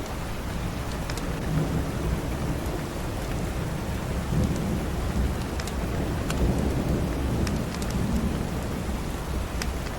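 Steady rain with a low rolling rumble of thunder that swells through the middle and fades near the end. Scattered sharp crackles from a wood fire sound over it.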